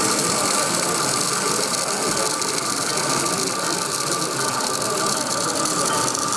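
Model railway locomotive running on the layout: a steady mechanical whirr of its small motor and gears, with fine rapid clicking.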